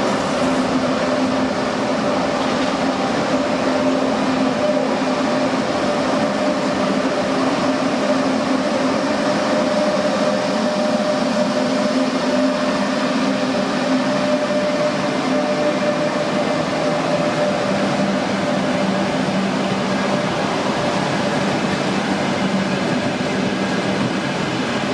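Train running steadily: continuous noise with two steady droning tones, one low and one higher, holding unchanged throughout.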